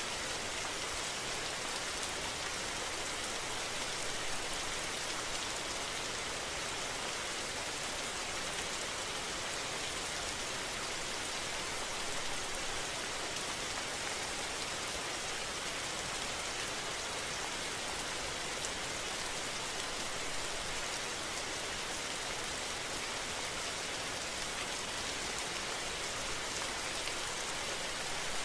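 Steady rain falling on surfaces, an even hiss with no let-up or gusts.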